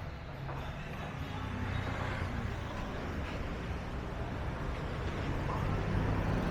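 Outdoor street ambience with a vehicle engine running, growing slowly louder as it comes nearer.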